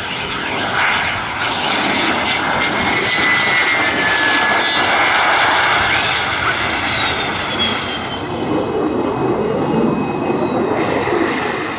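F-16 fighter jet flying past on approach, its high turbine whine falling in pitch as it passes over a heavy jet roar. The sound is loudest around the middle, and a lower rumble is left toward the end.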